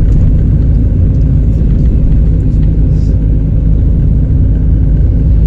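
Steady low exhaust rumble of a straight-piped Chevrolet Celta four-cylinder cruising at low, even revs, blended with the engine of a small truck just ahead.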